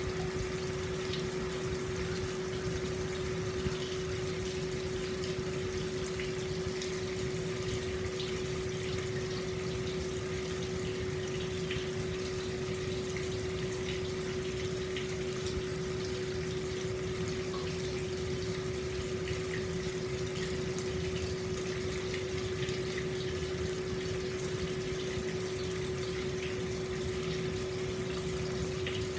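Hot-spring water flowing steadily out of a spout and splashing into an open-air stone bath, an even running-water rush with a constant hum underneath.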